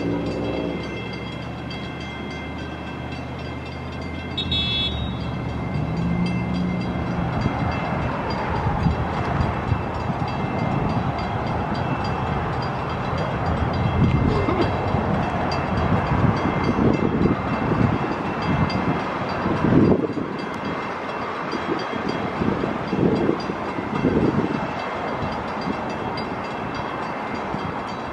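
Train passing close by: a horn chord cuts off in the first second, then the rumble and clatter of wheels on rail builds from about eight seconds in and stays loud, with uneven heavy thumps.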